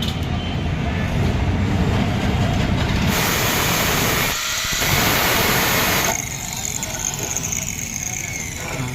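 Grinding wheel running, with a steel drill bit pressed against it for about three seconds in the middle to sharpen its tip: a loud, harsh grinding hiss that eases off when the bit is lifted away.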